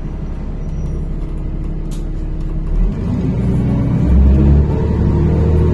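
NefAZ-5299 city bus engine running at a stop, then growing louder about three seconds in as the bus pulls away. A single sharp click sounds about two seconds in.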